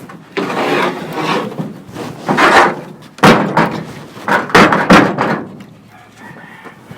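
A plywood sheet scraping and knocking against the wall as it is pushed into place, in several loud bursts over the first five seconds, the loudest about three and five seconds in.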